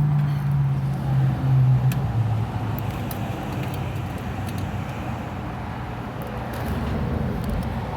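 A motor vehicle running nearby: a steady low engine hum, strongest for the first couple of seconds and then easing into a steadier background rumble.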